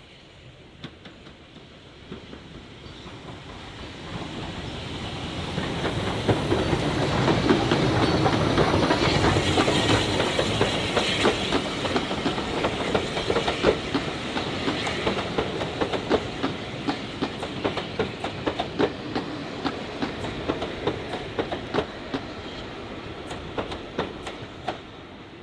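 A train passing on the track, building up to a peak then slowly fading away, with its wheels clicking over the rail joints; the clicks stand out more as it recedes.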